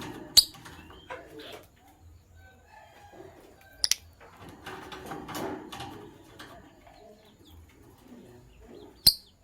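Lovebirds chattering, with three loud, shrill, very short chirps standing out: about half a second in, a quick double near four seconds, and one near the end.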